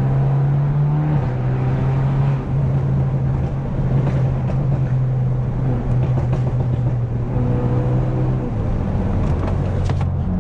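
Straight-piped BMW F30 328i's turbocharged four-cylinder engine and exhaust droning steadily while driving. The drone steps down in pitch about a second in and again near the end.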